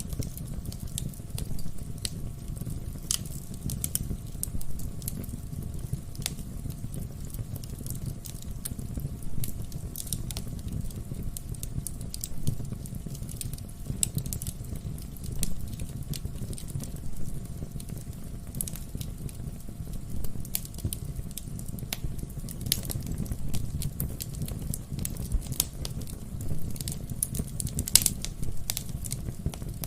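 Wood fire burning in a fireplace: irregular crackles and pops from the burning logs over a low steady rumble of the flames, with one sharper pop near the end.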